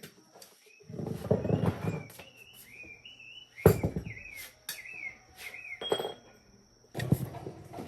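A bird chirping in short, repeated rising-and-falling notes, over a series of sharp knocks and clinks, the loudest a single hard knock about four seconds in.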